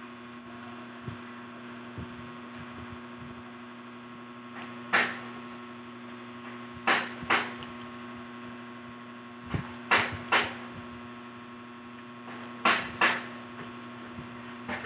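Crisp crunches of fried street food being bitten and chewed close to the microphone, several short crunches, mostly in pairs. A steady electrical hum runs underneath.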